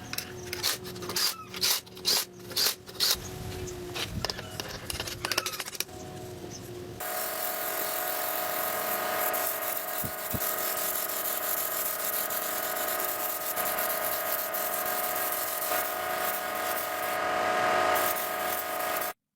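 Workshop restoration work: a run of rough scraping or rubbing strokes, then, after a cut about seven seconds in, a power tool running steadily with a whine that stops abruptly near the end.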